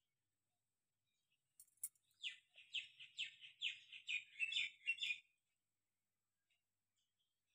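A bird chirping: a quick run of about eight short, high, slightly falling notes about two seconds in, lasting about three seconds, just after a couple of sharp clicks.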